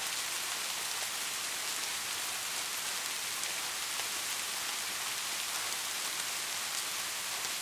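Steady rain: a dense, even hiss with faint scattered drop ticks and no thunder.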